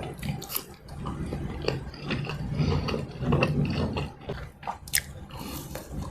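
Close-miked eating: biting into and chewing food, with irregular sharp crackles and wet mouth clicks.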